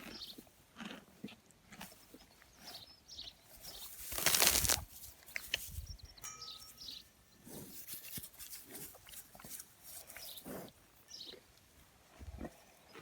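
A horse or pony crunching grass, with irregular bites and chews, a louder rush of noise about four seconds in, and a few short bird chirps.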